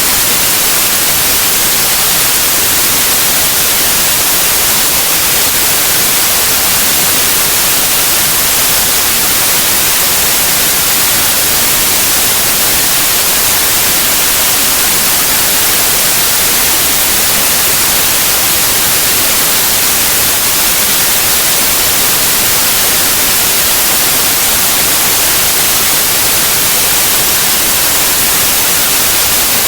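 Synthetic white noise: a steady, loud, even hiss with no change, strongest in the high frequencies.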